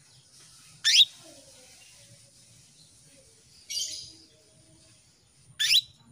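Female canary calling: two short, sharp upward-sweeping chirps about five seconds apart, with a rougher chirp between them. This is the call a female in breeding condition gives to draw a male into song.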